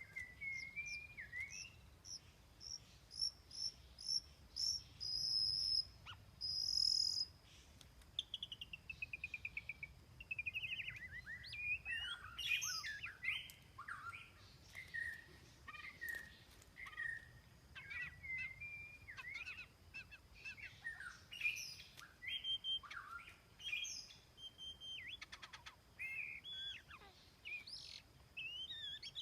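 White-rumped shama singing a long, varied song: runs of short high repeated notes, a quick falling series, then changing whistles and chirps.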